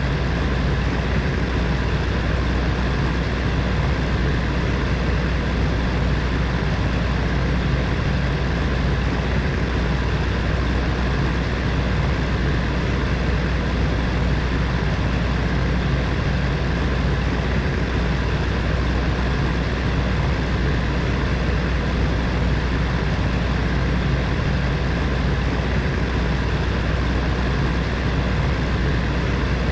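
Electric heater fan running steadily: a constant rushing hum, strongest in the low end, with faint steady tones from the motor.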